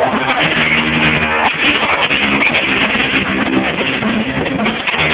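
Live rock band playing loud, with electric guitars and bass, recorded with poor, muffled sound quality.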